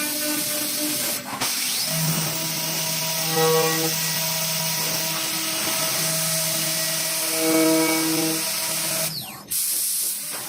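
CNC wood lathe running: a steady motor whine over a hiss of cutting, the tones shifting in stages. It breaks off briefly about a second in and again near the end.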